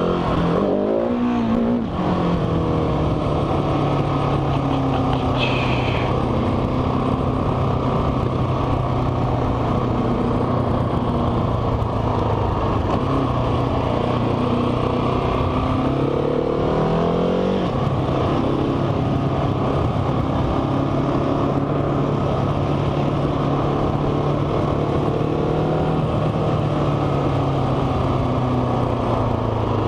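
Motorcycle engine heard from the rider's onboard microphone, running at a steady cruising pitch, with the revs rising about a second in and again around seventeen seconds in.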